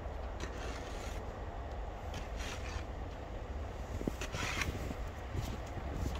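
Snow crunching and scraping in a few short, irregularly spaced bursts, the longest a little past the middle, over a steady low rumble.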